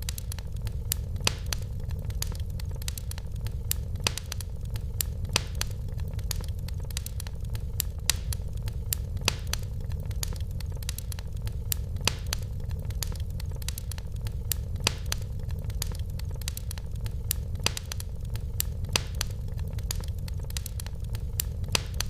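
Fireplace wood fire crackling: many irregular sharp pops and snaps over a steady low rumble.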